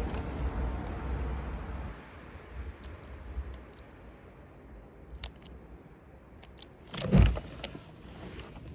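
Wind rumbling on the microphone for about two seconds, then scattered small clicks and jingles and one loud thud about seven seconds in.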